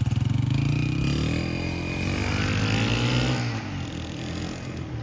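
Honda CG125's single-cylinder four-stroke engine pulling away, its pitch climbing for about three seconds, then dropping, getting fainter toward the end.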